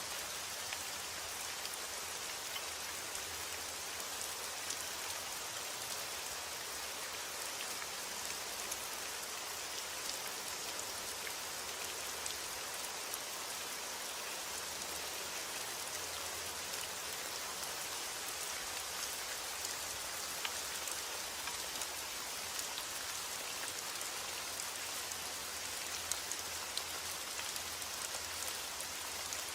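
Steady rain falling on a surface, a dense even hiss with many small drop ticks scattered through it.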